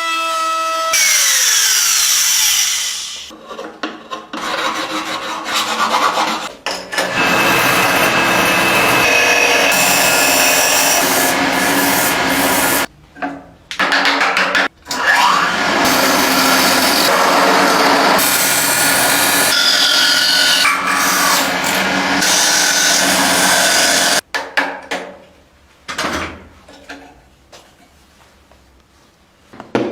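Power tools working wood: a whining motor with grinding and abrading noise, its pitch sliding as the tool bites and eases off. It stops briefly twice, then gives way to quieter, intermittent scraping near the end.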